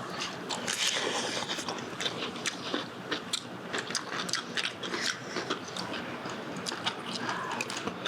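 A person eating up close: wet chewing with many small irregular crunches and clicks.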